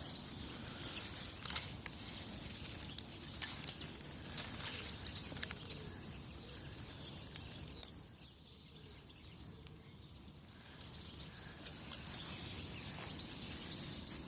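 Dry stinging nettles and twigs rustling and crackling as they are handled and stacked for a campfire, with scattered sharp snaps and a quieter stretch a little past the middle.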